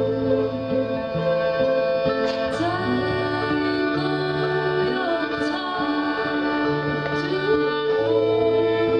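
Live band playing a song: a bass line, string instruments and singing, with the voice coming in about two and a half seconds in.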